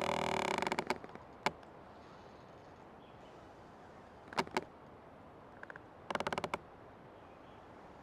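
Old tree creaking: a loud rasping creak at the start that breaks up into ticks, a single creak, then a couple of short paired creaks, and another brief run of rapid creaks about six seconds in, over a steady background hiss.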